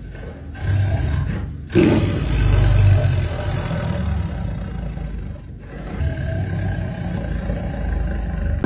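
Lion roaring, low and rumbling, with a sudden loud roar about two seconds in.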